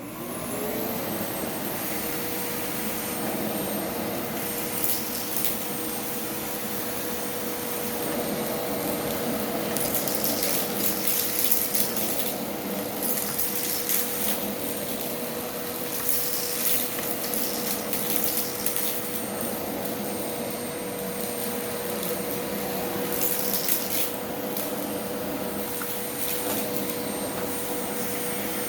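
Vacuum cleaner switched on, its motor spinning up to speed within about half a second, then running steadily with a high whine. Louder stretches of hissing rush come and go every few seconds.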